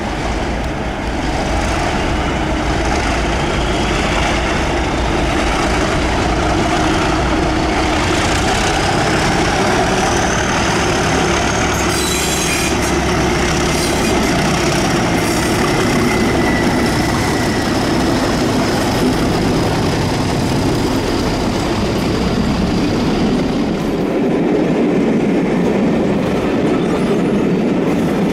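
A train running past on the rails, a steady rumble of wheels, with a thin high wheel squeal through the middle.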